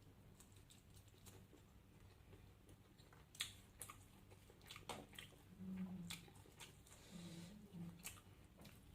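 Close-up chewing and biting of food: faint wet clicks and crunches. Two short closed-mouth 'mmm' hums come about six and seven and a half seconds in.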